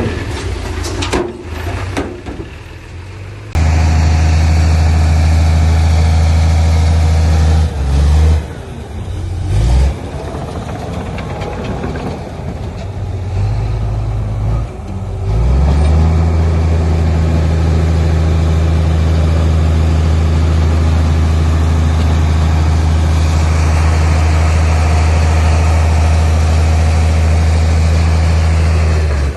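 Heavy diesel earthmoving machine running with a loud, steady, deep drone. The drone starts abruptly a few seconds in, breaks off twice, and comes back steady for the second half.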